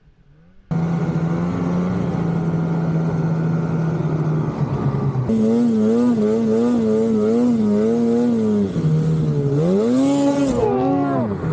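Snowmobile engine comes in suddenly and runs at a steady speed. About five seconds in it revs higher, rising and falling unevenly, and near the end it drops and surges again.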